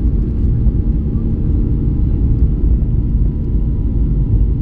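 Jet airliner taking off: a steady, loud low rumble of the engines and airframe, with faint steady tones above it.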